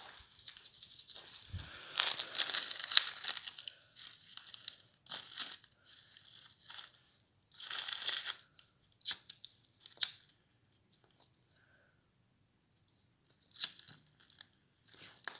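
Dry leaves and hay rustling and crackling as they are handled, in short bursts, the loudest a couple of seconds in. In the second half there are a few sharp single clicks that fit a lighter being struck.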